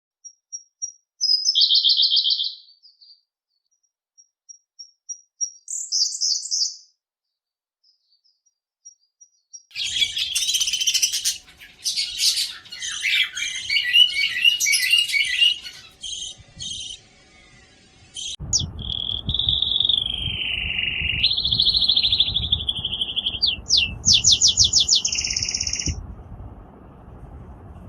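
Birds chirping and calling. First come short, high chirps separated by silences, then a dense stretch of chattering calls, and in the second half a sliding, whistled song over low background noise.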